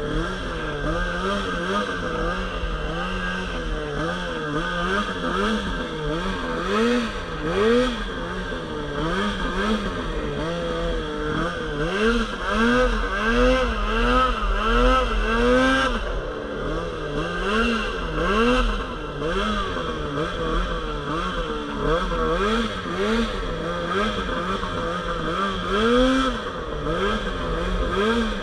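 Polaris RMK Pro 800 snowmobile's two-stroke twin engine being ridden and throttled on and off. Its pitch rises and falls over and over, about once a second.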